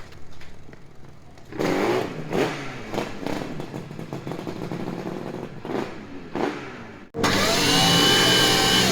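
Classic racing motorcycle engine being blipped, revving up and dropping back several times in quick succession. About seven seconds in, it cuts abruptly to a louder, steady engine note held at high revs.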